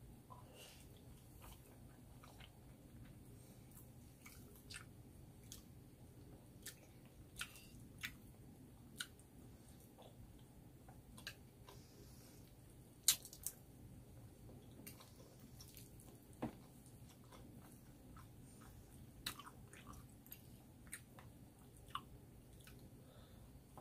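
Close-miked wet chewing of spicy instant noodles and rice cakes: irregular sharp mouth clicks and smacks, the loudest a little past halfway, over a faint steady low hum.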